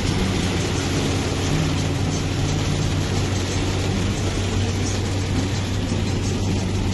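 A car driving, with steady engine and road noise and a constant low hum.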